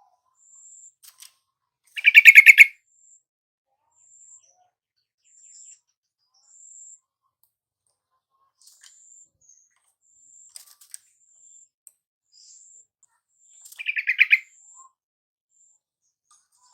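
Yellow-vented bulbul giving two short, bubbly chattering calls of rapid notes, about two seconds in and again near the end, with faint short high-pitched notes repeating in the background.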